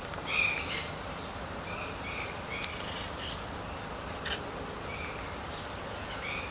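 Birds chirping in short, high bursts over a steady outdoor hiss, with the loudest cluster of chirps just after the start and scattered single chirps after that.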